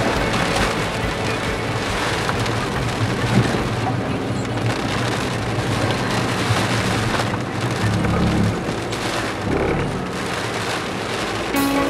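Heavy typhoon rain and wind beating on a moving car, heard from inside the cabin, over a steady low rumble from the engine and road.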